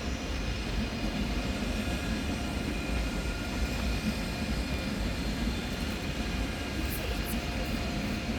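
ICE high-speed electric train pulling into a station: a steady rumble with a faint whine from its traction equipment, and two brief high squeaks near the end.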